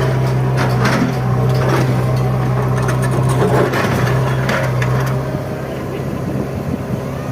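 Bulldozer engine running with a steady low drone, with knocks and rattles through the first five seconds that then die away.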